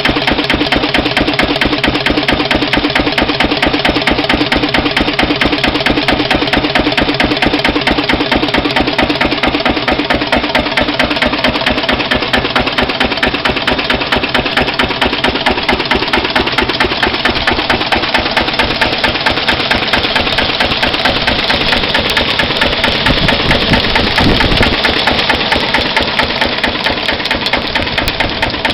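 1931 Lister CS stationary diesel engine running steadily with a fast, even beat, belt-driving an 1869 Gramme dynamo.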